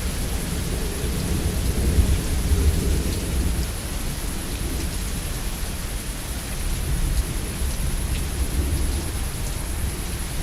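Heavy rain falling steadily, with thunder rumbling low and continuously underneath, swelling and easing. A few faint drips tick now and then.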